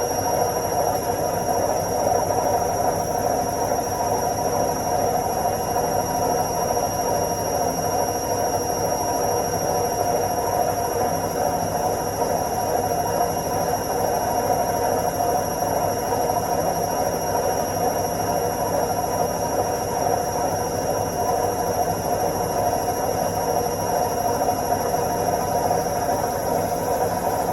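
Washing machine in its spin cycle: the drum spinning at a steady speed, a constant whirring drone with a faint high whine over it.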